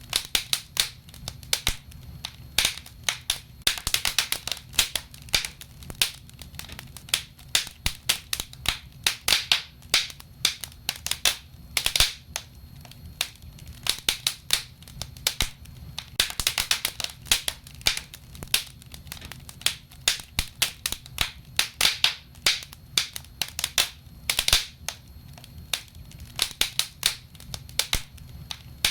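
Wood fire burning in a fireplace, crackling and popping irregularly over a low steady rumble, with dense clusters of crackles every few seconds.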